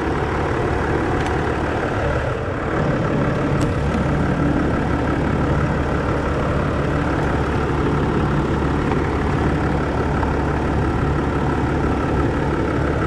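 Land Rover Discovery 4's 3.0 V6 diesel engine idling steadily, heard from under the open bonnet and running on a newly fitted alternator. A couple of faint clicks from the test leads being handled.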